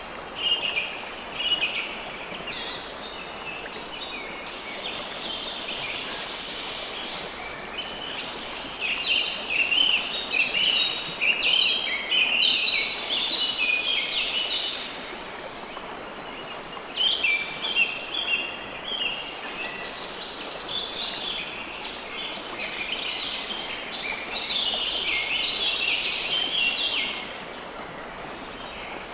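Birds chirping busily in two long bouts over the steady rush of flowing river water.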